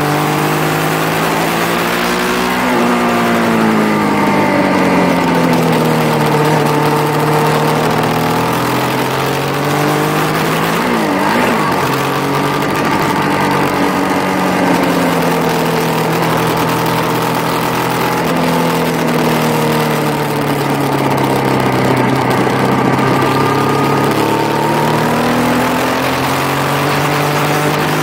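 Motorcycle engine running under load on track, its pitch falling and climbing again several times as the rider rolls off for corners and accelerates out, over a steady rush of wind noise.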